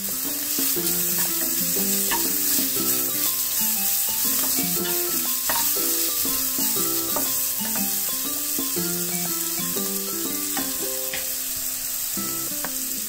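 Chopped vegetables sizzling in hot oil in a nonstick kadai while a wooden spatula stirs them, with a few sharp clicks of the spatula against the pan. Background music with a stepping melody plays over the frying.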